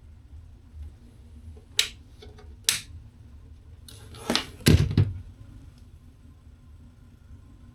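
Two sharp clacks, then a louder clatter ending in a heavy thud about four to five seconds in, like a door or panel being shut.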